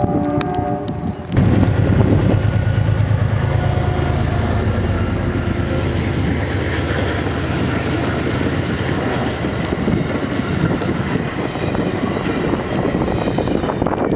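An Amtrak P32AC-DM locomotive's horn chord ends about a second in. The train then passes close by: a sudden loud rush of locomotive and cars over a steady low hum that slowly fades.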